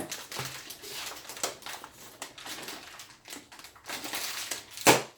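Dogs crunching and chewing dog treats: a string of short, sharp crunches, with one loud crack near the end.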